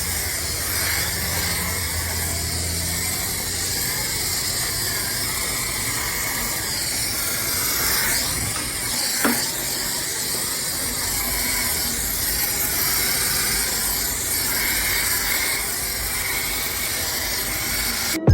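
Car-wash pressure-washer wand spraying water, a steady hiss, with a low hum under it that fades in the first few seconds and a single short click about halfway through.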